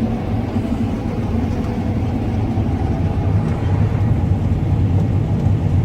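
Combine harvester running steadily while harvesting wheat, a loud even low drone from its engine.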